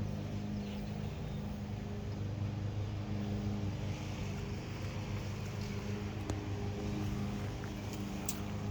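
Car engine running steadily with a low, even hum, and a couple of faint ticks in the second half.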